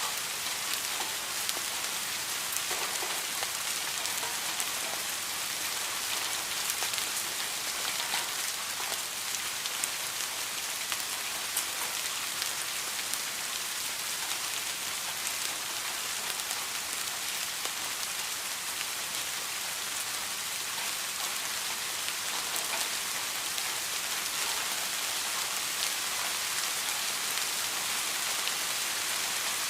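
Steady rain falling, a continuous hiss with many fine drop ticks and no thunder.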